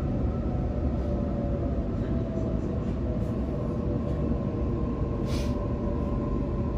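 Sydney Trains Waratah electric train heard from inside the carriage while running: a steady rumble with a faint steady whine, and a brief hiss about five seconds in.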